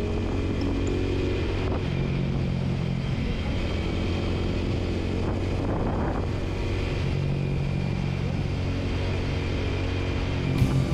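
Honda Rebel 250's single-cylinder engine running steadily as the motorcycle cruises along an open road, with constant road and wind noise. There is a brief rush of noise about halfway through and a few sharp clicks near the end.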